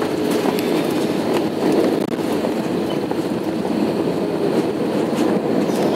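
Cabin noise inside an Airbus A319-132 airliner around the landing: a steady roar of jet engines and airflow, with scattered rattles and clicks from the cabin fittings.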